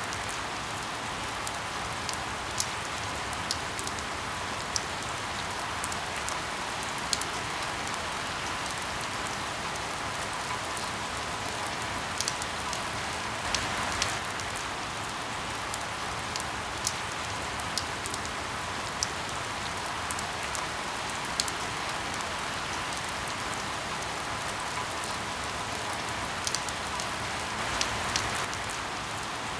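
Steady rain falling, with scattered sharp pops and crackles of burning firewood every few seconds.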